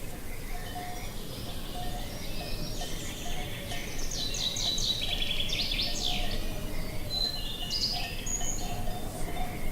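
Birds singing outdoors: one bird gives quick, rapidly repeated chirping phrases from about three seconds in, over a steady low background noise.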